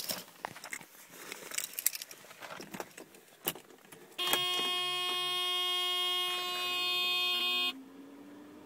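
Keys jangling and clicking, then a steady electronic warning buzzer in the Mercedes-Benz 300E sounds for about three and a half seconds and cuts off suddenly, before the engine is started. A faint rising whine follows near the end.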